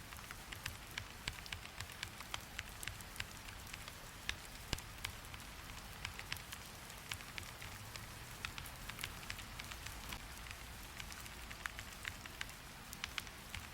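Steady rain hiss with many irregular, sharp clicks, several a second.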